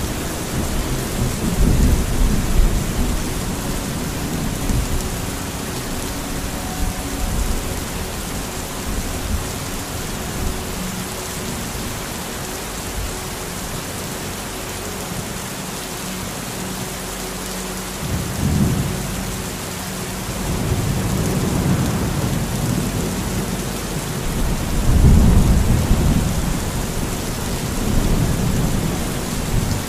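Thunderstorm: steady heavy rain with several rolls of thunder, one near the start and others in the second half, the loudest about five seconds before the end.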